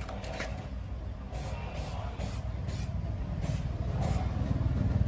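A small engine running, getting louder after about three and a half seconds, with short bursts of hiss repeating roughly twice a second over it.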